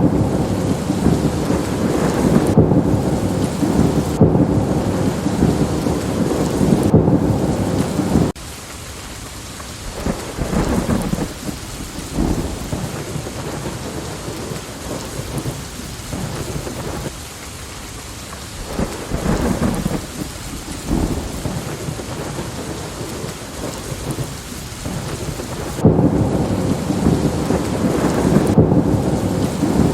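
Steady rain with rolling thunder. A long, loud rumble cuts off suddenly about eight seconds in, softer scattered rumbles and crackles continue under the rain, and loud rumbling starts again abruptly near the end.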